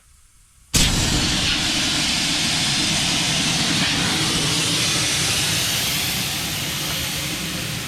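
Compressed air venting from a shop air compressor's tank with a loud, steady hiss that starts suddenly about a second in and slowly fades as the pressure drops.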